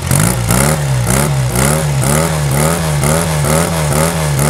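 1966 Triumph 350 T3 21 parallel-twin motorcycle engine being revved in quick, even throttle blips, about three a second, its pitch swinging up and down with each blip.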